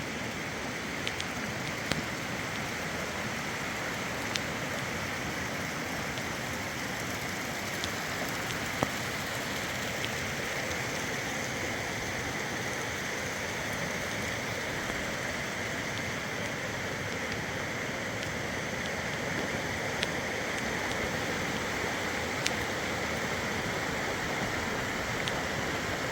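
Heavy rain falling steadily, with occasional sharp ticks of drops striking a surface.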